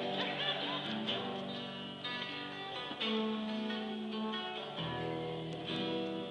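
Guitar being played, with ringing chords and notes that change roughly once a second, as a short warm-up piece.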